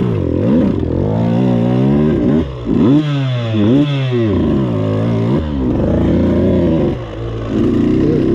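Two-stroke dirt bike engine being ridden, revving up and down over and over as the throttle is worked. Its pitch climbs in several quick sharp rises around the middle, then holds more steadily near the end.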